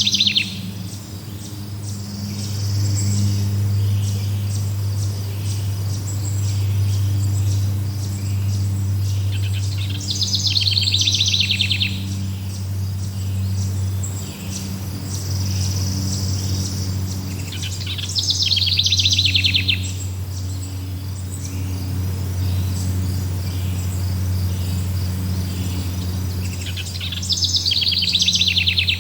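Forest ambience: a songbird's rapid trill, about two seconds long, repeating roughly every eight or nine seconds over steady insect chirping, with a steady low hum underneath.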